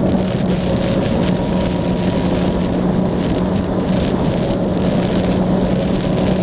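Yamaha Tracer motorcycle engine running at a steady cruise, holding one even note, under a constant rush of wind and road noise.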